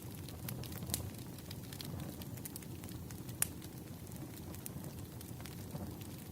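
Wood fire crackling: irregular sharp snaps and pops over a low steady rumble, with one louder pop about three and a half seconds in.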